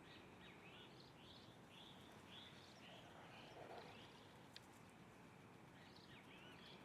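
Faint bird song: a series of short, repeated high notes, about two a second for the first three seconds, starting again near the end, over a steady faint background hiss.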